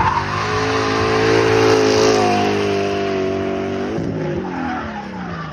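Audi 4.2-litre V8 in a BMW E30 drift car held at high revs while the tyres skid and screech. About four seconds in, the revs drop and the engine note falls away.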